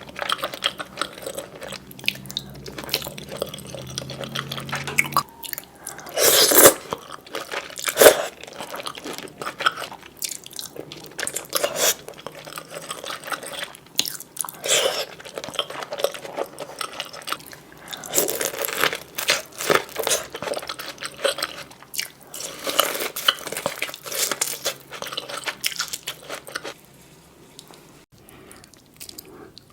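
Close-miked eating of seafood boil: irregular crunching, biting and chewing, with the loudest crunches about six and eight seconds in.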